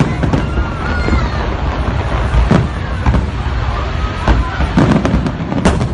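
Aerial fireworks shells bursting in deep bangs every second or two, the loudest near the end, over a crowd's chatter.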